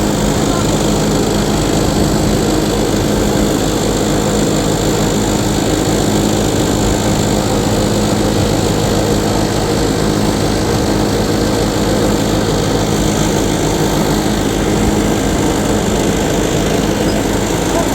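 A small engine running steadily at constant speed, with an even, unchanging pitch.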